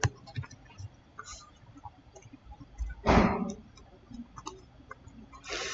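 Scattered faint computer mouse clicks, with a sharper click at the start. About three seconds in there is a short burst of noise, and another comes just before the end.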